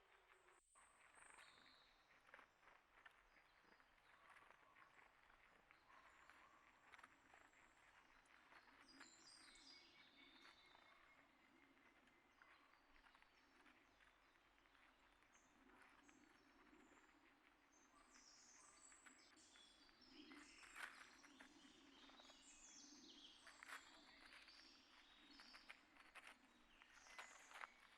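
Faint outdoor ambience with small birds chirping now and then and many light clicks and rustles, busier in the second half.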